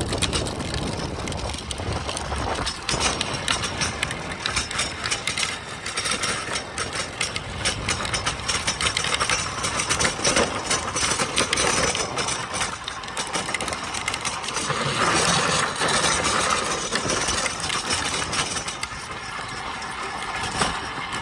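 Tricycle wheels rolling over pavement with a continuous rattling clatter.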